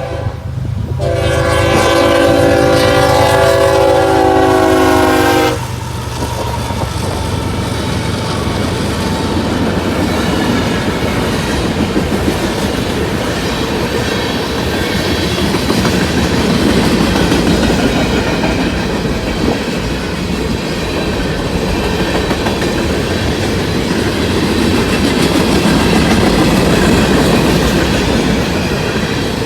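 Diesel locomotive horn sounding one long chord for about four seconds over the engines' drone as the lead locomotives pass. Then the steady rolling rumble and clatter of a freight train's cars going by on the rails.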